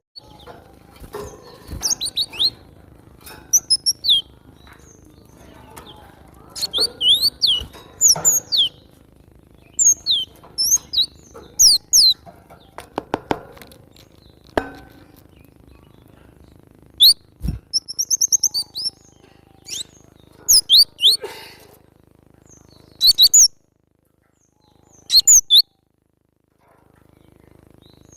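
Cinereous tit (glatik batu) calling in bursts of quick, high, falling chirps with short pauses between them, including a fast trill about two-thirds of the way through. A few soft knocks sound under the calls.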